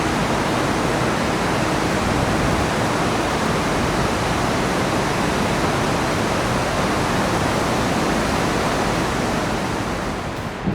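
Steady rush of running water, easing slightly near the end, with a brief thump right at the end.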